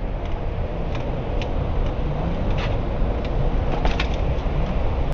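Mountain bike rolling down a dirt trail: a steady low rumble of tyres and wind on a helmet-mounted action camera, with scattered sharp clicks and rattles from the bike.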